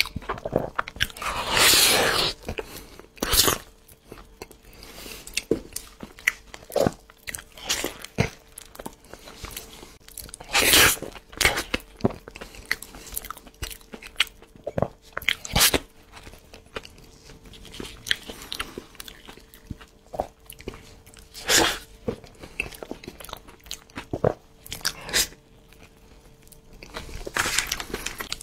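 Close-up eating sounds: wet chewing and lip-smacking of a mouthful of soft food, irregular clicks with a few louder bites and smacks scattered through.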